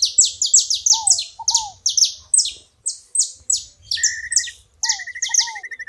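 Saffron finches (canário-da-terra) singing: a fast run of sharp, high down-slurred notes, several a second. Now and then a lower pair of falling notes joins in, and from about four seconds in a trill starts and runs on past the end.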